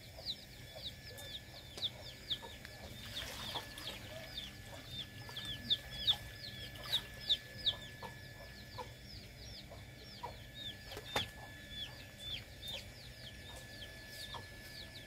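Birds chirping: a quick, continuous run of short, high calls that fall in pitch, with one sharp click about eleven seconds in.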